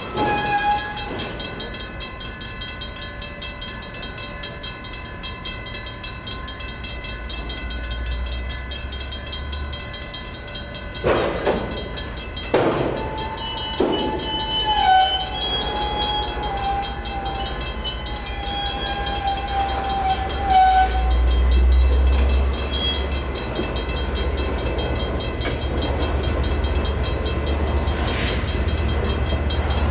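Freight train switching slowly through a grade crossing, hauled by EMD SD59MX diesel locomotives. A few sharp clanks from the cars come about 11 to 14 seconds in. Wavering high wheel squeal follows for several seconds, and the low diesel rumble grows louder in the second half.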